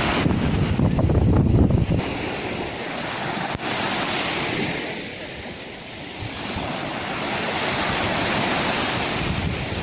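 Sea waves washing onto a shore, the surf swelling and easing off with a lull about halfway through. Wind buffets the microphone with a low rumble for the first two seconds, then stops abruptly.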